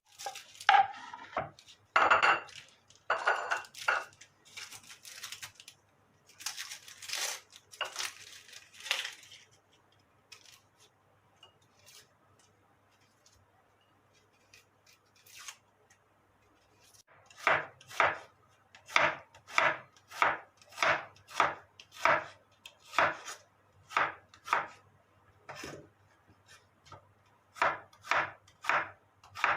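Kitchen knife chopping on a cutting board: a few irregular knocks and rustling in the first several seconds, a pause, then a steady run of chops about two a second through the second half.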